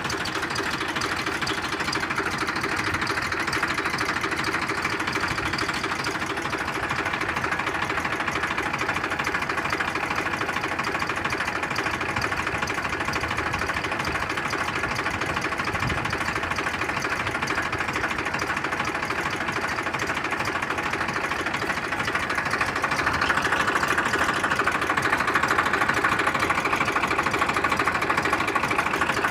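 A spray pump set running steadily with a fast, even mechanical rattle, getting a little louder about three quarters of the way through.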